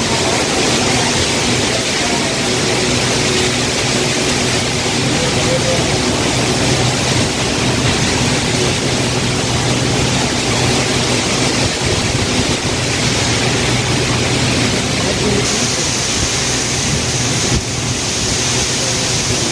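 Heavy rain falling, a steady loud hiss with no let-up, over a faint low steady hum.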